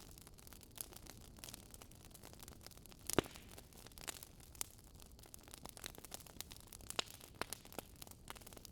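Wood fire crackling: irregular sharp pops and snaps over a soft steady hiss, one pop about three seconds in louder than the rest.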